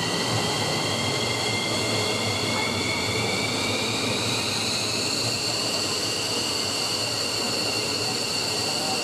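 F-15 jet engines running on a ground test run, their high turbine whine rising slowly in pitch for the first few seconds and then holding steady over a rushing roar.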